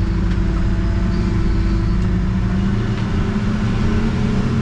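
Backhoe engine running steadily, its pitch rising a little about halfway through.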